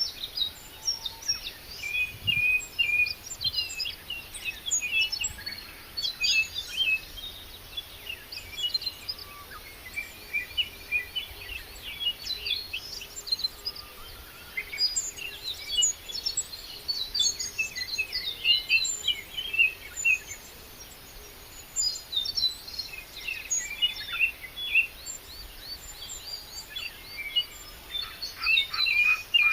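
A chorus of many birds chirping and singing, with short high notes overlapping throughout. Near the end a fast, evenly spaced rattling call starts up.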